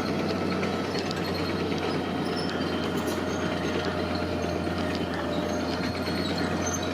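Heavy diesel earthmoving machinery running steadily, with a constant low hum and scattered metallic clicks and clanks.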